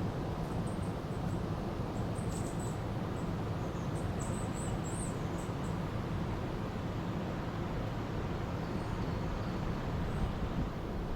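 River water rushing steadily, with faint high-pitched bird chirps over it during the first half and again briefly near the end.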